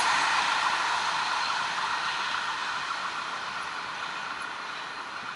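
Rolling noise of a freight train's wagons on the rails, fading steadily as the rear of the train moves away.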